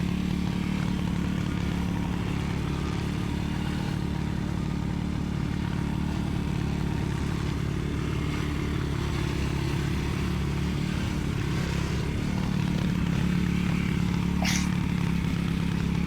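Dirt bike engine running steadily at low revs, picking up a little about twelve seconds in. A brief high squeak comes about a second and a half before the end.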